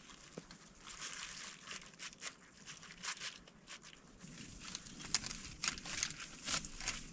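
Irregular crunching and rustling: a string of short, crisp crackles, coming thicker and louder in the second half.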